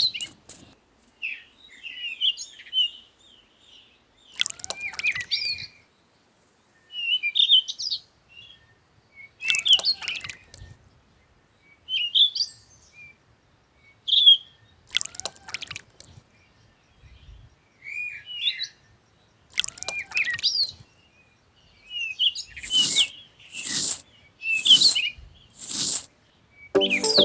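Birds chirping and trilling in short, repeated calls, with a louder sweeping call coming about every five seconds.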